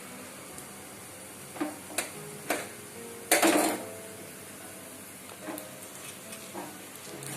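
Kitchen utensils knocking: three sharp clicks, then a longer, louder scrape a little over three seconds in, and a couple of lighter knocks later, over a faint steady hiss.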